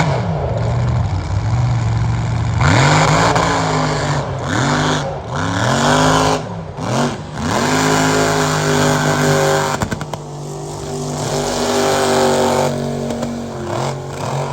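Mega truck's engine revving hard, its pitch rising and falling several times in quick succession, then held at high revs for a few seconds before easing off near the end.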